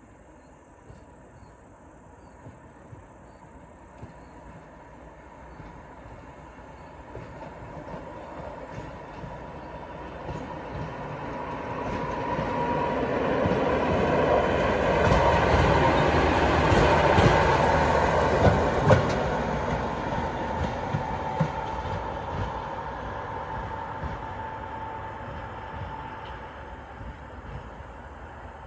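Heavy freight train approaching and passing at speed. The rumble of its wheels and wagons builds over about fifteen seconds to a loud peak, with clattering knocks from the rails and a thin steady whine, then fades as it goes away.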